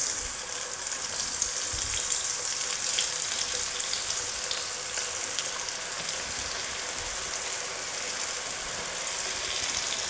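Breadcrumb-coated bread fingers frying in hot coconut oil in a pan: a steady sizzle with scattered small crackles.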